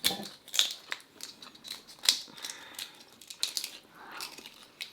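Close-miked eating sounds: lobster meat in a creamy carbonara sauce being chewed, with irregular wet clicks and smacks every fraction of a second.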